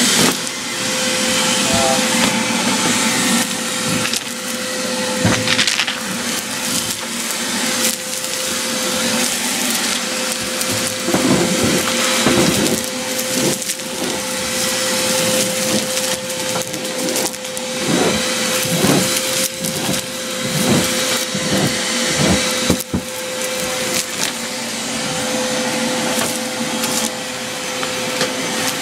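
A machine runs with a steady whine and hum throughout while wood and building material are pried and broken out in many sharp cracks, snaps and knocks, thickest in the middle of the stretch.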